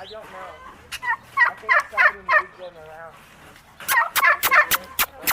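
Domestic tom turkeys gobbling: two rapid rattling gobbles, one about a second in and another near the end.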